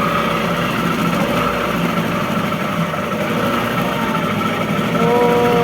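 Steady drone of a ride boat's motor. About five seconds in, a short whistle-like chord of three tones sounds.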